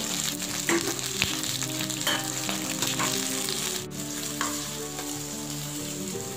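Okra (bhindi) sizzling as it fries in hot oil in a kadhai, with a few sharp metal clinks as the steel plate lid comes off and a steel slotted spoon stirs it against the pan.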